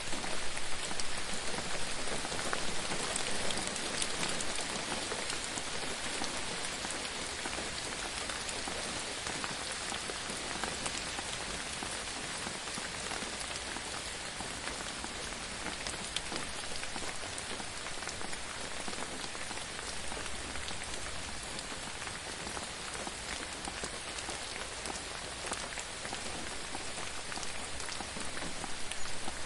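Steady gentle rain falling, a constant patter of many small drops hitting a surface.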